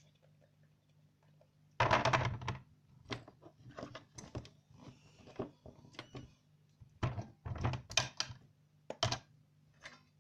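Rubber erasers clattering and knocking against a tabletop and each other as a collection of them is handled: a burst of clatter about two seconds in, then scattered knocks, with a second cluster near the end.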